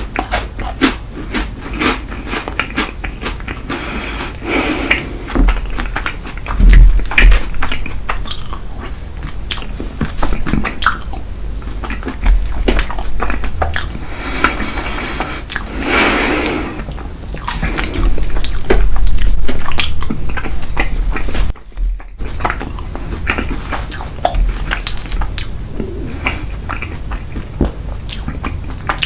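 Close-miked eating: chewing and biting of ice cream cake and chocolate desserts, with occasional crunches and many small irregular mouth and dish clicks.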